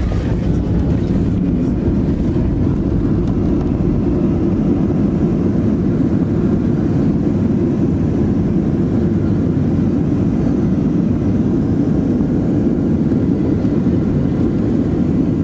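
Steady engine and airflow noise inside the cabin of a Boeing 737NG airliner, with its CFM56-7B turbofans running. The noise stays even throughout, heaviest in the low range.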